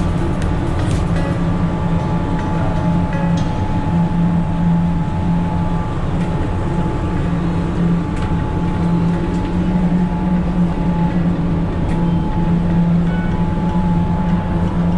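Passenger ferry's engines droning steadily, a deep hum with a faint steady higher tone over it.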